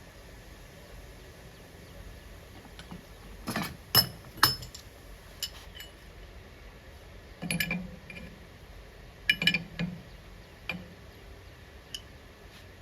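Metal tool and grinder parts clinking and knocking as they are handled, in a few short clusters of sharp clinks with quiet in between.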